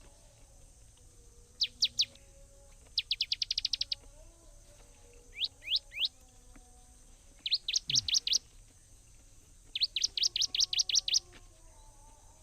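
A songbird calling in five quick phrases of sharp, high chirps, each phrase a rapid run of three to ten notes, over a faint steady high hiss.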